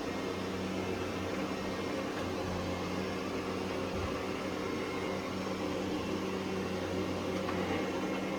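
Roborock Qrevo S robot vacuum running: a steady motor hum with a few low steady tones.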